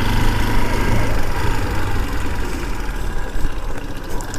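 Motorcycle engine running steadily while being ridden, a low even hum.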